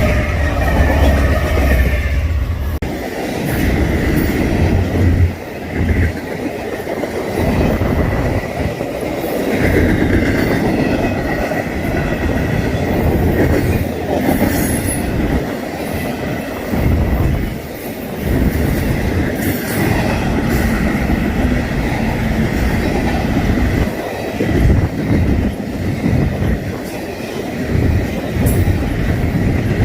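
Double-stack intermodal freight train rolling past: steady rumble and rattle of the cars with repeated wheel clacks over the rail joints, and a thin, high, steady squeal from the wheels on the rail.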